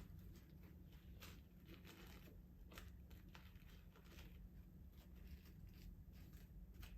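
Near silence with faint, scattered rustles of a piece of paper being folded by hand over a steady low hum.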